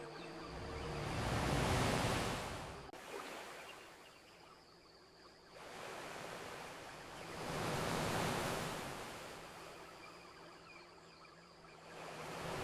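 Ocean waves surging and washing onto a beach in slow swells, two peaking about six seconds apart and a third building near the end. The first wave's wash cuts off abruptly about three seconds in.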